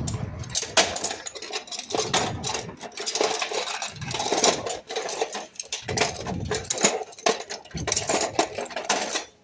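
Metal hand tools clinking and clattering as they are rummaged through and picked up, a dense, irregular run of small metallic knocks.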